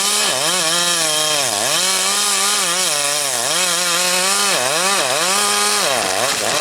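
Large Husqvarna two-stroke chainsaw running at full throttle and cutting wood. Its pitch sags and recovers about once a second as the chain bites into the cut.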